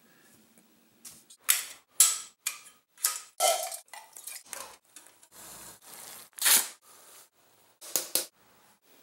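Cookware being handled: a string of about a dozen sharp clinks, knocks and scrapes, like pots, lids and utensils being set down and moved while making hot chocolate.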